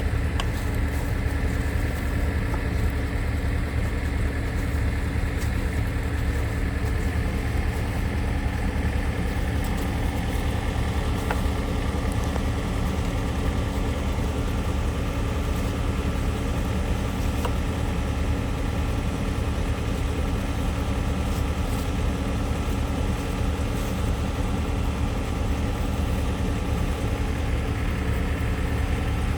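Logging truck's diesel engine running steadily: an even, unbroken low drone.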